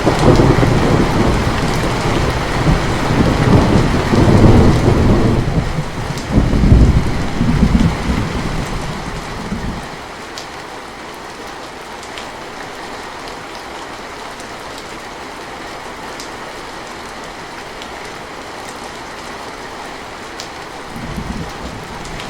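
Steady rain with a long roll of thunder that is loudest over the first eight seconds or so, then fades away about ten seconds in, leaving the rain alone. A fainter rumble of thunder starts again near the end.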